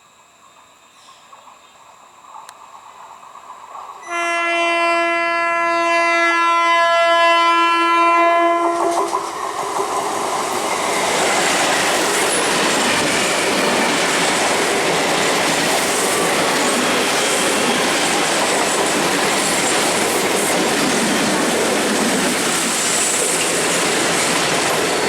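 Electric multiple unit (EMU) local train approaching and sounding its horn in one long held blast of about five seconds, then passing close by as a loud, steady rush of wheels and coaches on the rails.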